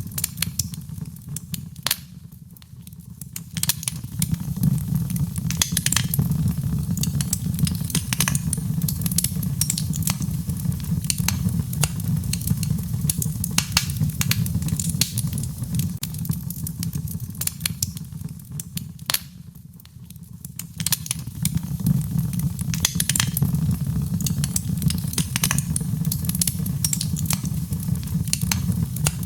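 Wood fire crackling in a fireplace: frequent sharp pops and snaps over a steady low rumble of flames, with two brief drops in level, about two seconds in and again near twenty seconds.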